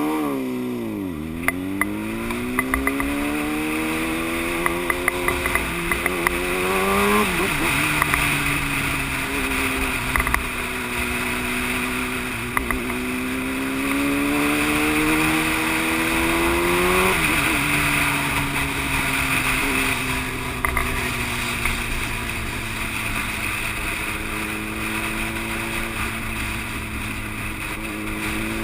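Yamaha YZF-R1's inline-four engine pulling hard through the gears, its pitch climbing and then dropping sharply at two upshifts, about seven and seventeen seconds in, before it runs steadier with the pitch easing slightly. Steady wind rush runs underneath.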